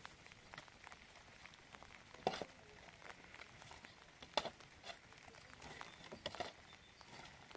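Scattered sharp knocks and taps, the two loudest about two and four seconds in and a few more near the end, over a faint steady hiss.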